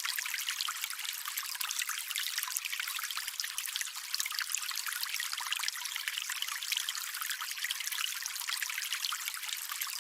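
Water trickling and splashing in a steady, dense patter of small droplets, all hiss and no low rumble.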